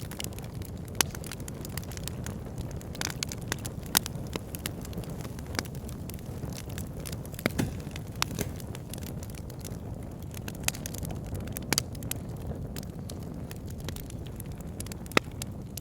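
Wood fire burning in a log burner: a low steady rumble of flames with irregular sharp crackles and pops from the logs.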